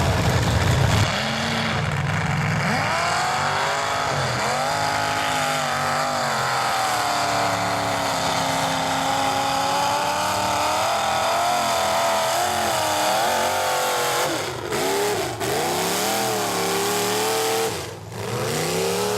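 Chevy mega truck's engine revving hard in a mud pit, the pitch climbing and falling with the throttle. The revs drop sharply twice near the end, then climb again.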